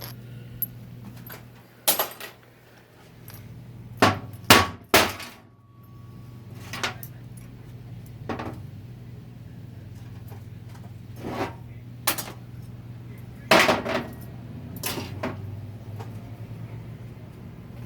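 Metal hand tools knocking and clanking against the cast housing and parts of a 4L60-E automatic transmission being torn down: about ten sharp, irregular strikes, the loudest a quick cluster about four to five seconds in and another near the middle, over a steady low hum.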